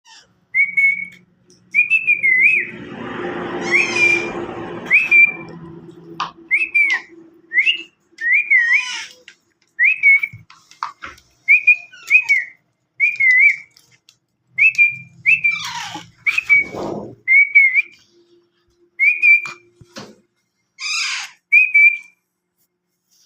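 Pet parrot whistling the same short wavering note over and over, about once a second, with a couple of brief scratchy, noisy calls in between.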